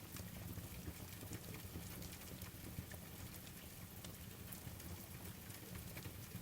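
Steady rain hiss with a low rumble, mixed with a wood fire crackling in scattered sharp pops.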